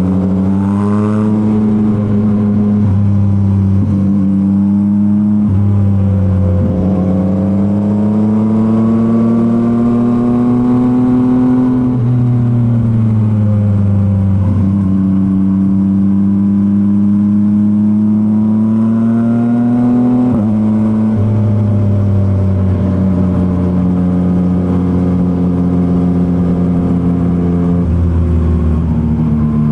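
2023 Yamaha MT-09's three-cylinder engine breathing through a Revoc SP full aftermarket exhaust system while riding. The engine note rises and falls slowly with the throttle, and its pitch steps abruptly several times through the stretch.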